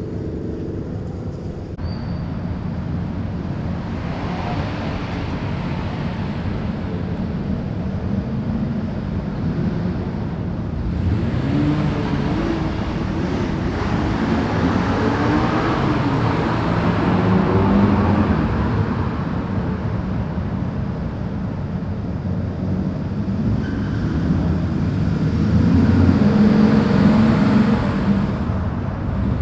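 Modified cars' engines running through loud aftermarket exhausts, with engine pitch rising and falling around the middle and the loudest stretch near the end.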